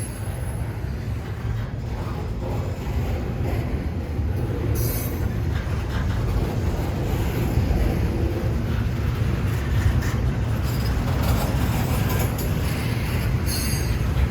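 Train rolling past: a steady low rumble of wheels on rail that grows slowly louder, with short high-pitched wheel squeals about five seconds in and again near the end.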